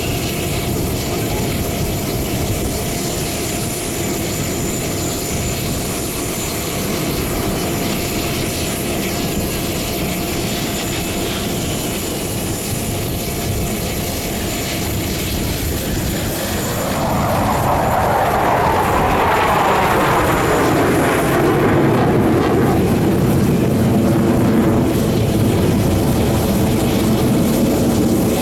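Jet engines of the aerobatic team's military fighter jets: a steady distant roar, then about 17 seconds in a jet comes closer and passes, growing louder with a sweeping, falling pitch.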